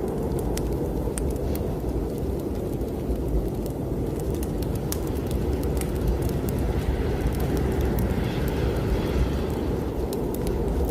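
Strong snowstorm wind blowing steadily, a dense low rush, with the scattered sharp crackles and pops of a wood fire burning in a fireplace.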